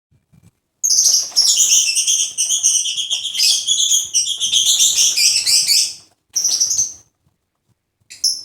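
Lovebird chattering in a rapid, dense run of high chirps for about five seconds, then a shorter burst and one brief call near the end.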